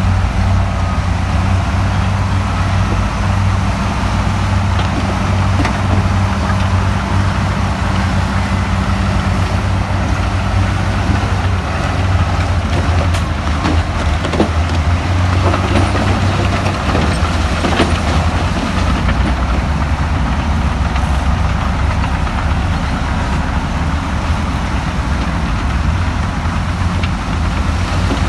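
Diesel engine of heavy earthmoving machinery running steadily, with a few knocks and clanks of metal and stone about halfway through.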